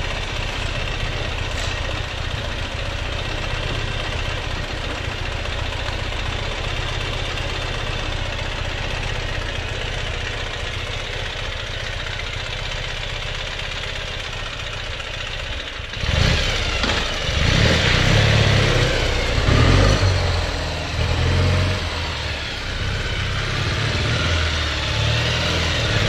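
Ural sidecar motorcycle's air-cooled flat-twin engine idling steadily. About sixteen seconds in it turns suddenly louder and uneven, revving up and down.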